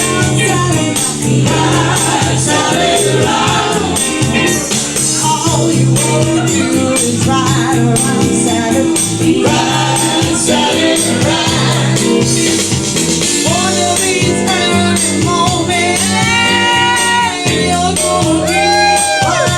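Live blues-rock band music with a steady beat and walking bass line, and a bending lead line in the last few seconds.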